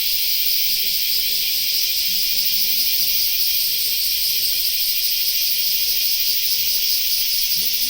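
A steady, loud high-pitched hiss that holds evenly throughout, with a faint muffled voice underneath.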